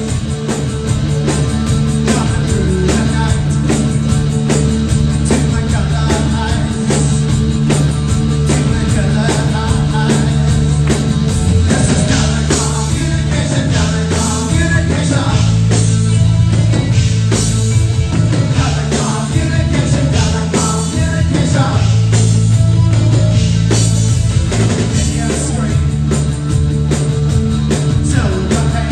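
A live band plays a new wave rock song with a steady drum beat and bass.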